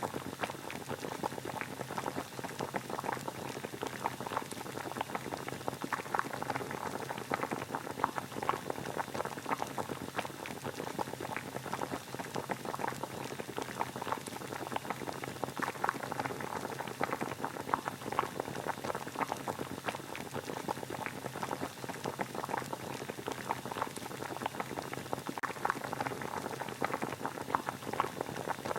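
Water boiling: a steady, dense bubbling that goes on without a break.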